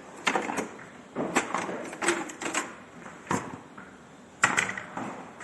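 Irregular clicks, knocks and clattering of hard parts being handled, in half a dozen clusters, the loudest shortly before the end: hands at work on a machine during a belt replacement.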